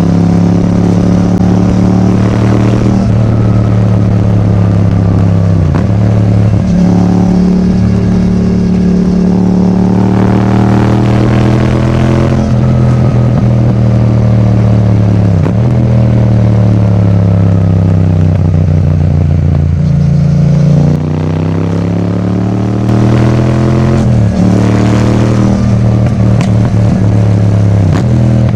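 Yamaha MT-07's parallel-twin engine through an Akrapovič titanium exhaust, ridden under way. The engine note climbs repeatedly under acceleration and drops sharply at each of several gear changes. About two-thirds of the way through it eases off, the pitch sinking and the level falling slightly, then it picks up again.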